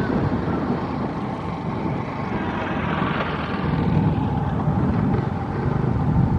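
Train running past on the track: a steady rumble of wheels on the rails, with a hiss that swells and fades about halfway through.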